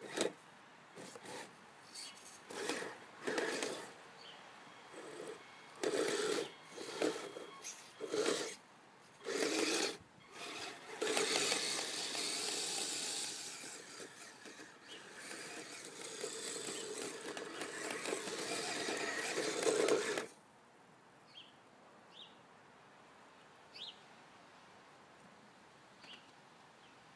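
Kyosho Blizzard SR radio-controlled snowcat's motors and tracks whirring in short spurts, then running steadily for about ten seconds as it pushes snow. The sound stops abruptly about three quarters of the way through, leaving only a few faint ticks.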